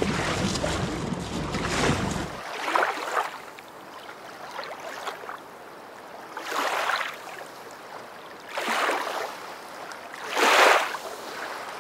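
Small waves lapping and splashing against a boat hull, coming in separate surges about every two seconds. A low rumble stops suddenly about two seconds in.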